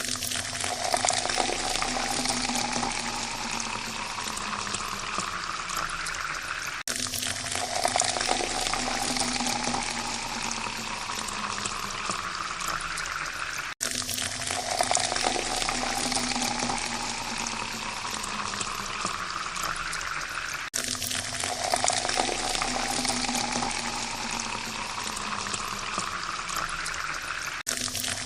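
Water pouring into a glass, its pitch rising steadily as the glass fills. The same pour repeats four times, about every seven seconds, each separated by a brief break.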